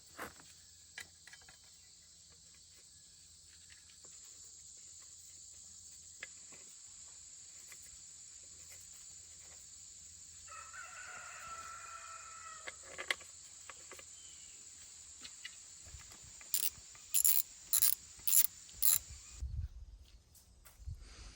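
A hand ratchet clicking in five quick strokes near the end, over a steady high hiss. About halfway there is a short pitched call lasting a couple of seconds.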